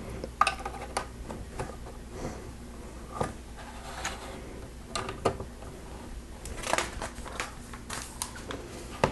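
Plastic Lego pieces being handled and pressed together, with a scattering of separate light clicks and rattles.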